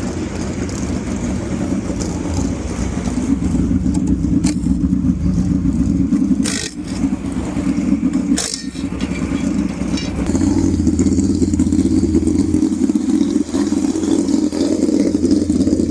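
Midget race car engine running hard at racing speed on a dirt track, heard from on board. There are two sharp knocks in the middle, and the engine gets louder about two thirds of the way through.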